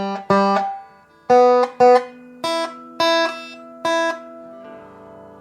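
Guitar strings plucked one at a time through the ARP Avatar hex pickup as a string-by-string test: about eight short notes, each cut off quickly, stepping up in pitch across the higher strings. A faint low hum follows near the end.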